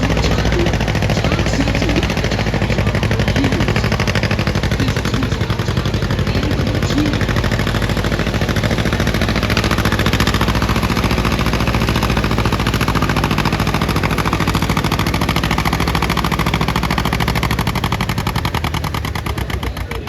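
Antique tractor engine running hard under full load while pulling the weight sled, its exhaust a loud, rapid, steady rattle of firing pulses. It drops away near the end as the run finishes.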